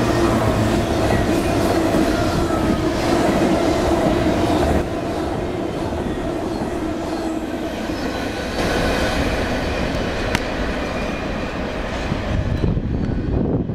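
Intermodal freight train cars loaded with containers and trailers rolling past close by: a steady rumble and clatter of wheels on rail, with a faint whine over it. The sound drops a little about five seconds in and fades near the end.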